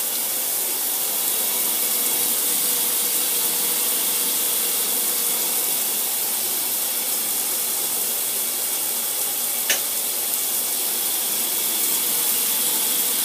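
Power Spa Air Turbo LED shower head running, its water spray making a steady hiss. A brief click comes about ten seconds in.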